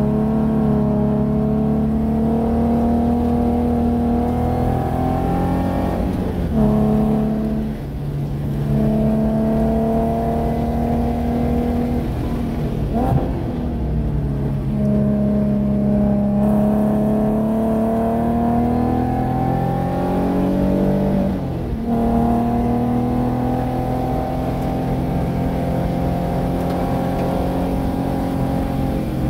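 Nissan 370Z's 3.7-litre V6 pulling hard at high revs, heard from inside the cabin. Its pitch climbs steadily through each stretch, broken three times where the revs change abruptly; the last break is the shift from third into fourth gear.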